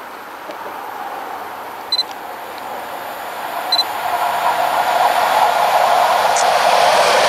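An approaching EP07 electric locomotive hauling Intercity passenger coaches, its rail and running noise growing steadily louder as the train nears. Two brief high-pitched chirps sound about two and four seconds in.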